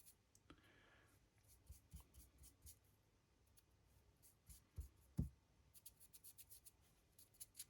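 Near silence with faint scratchy strokes of a paintbrush dabbing paint onto a resin model, and two soft knocks about five seconds in.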